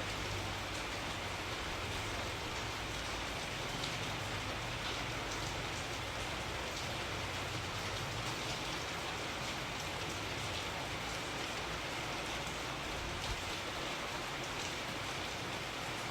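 Steady rainfall: an even hiss of rain with scattered individual drops ticking on a surface, over a low rumble.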